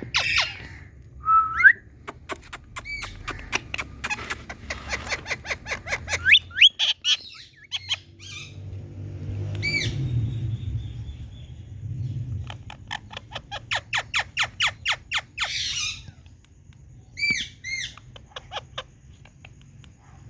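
Indian ringneck parrots calling: long runs of quick, short chattering calls at about five a second, broken by louder single screeches. A low rumble sits under the calls about halfway through.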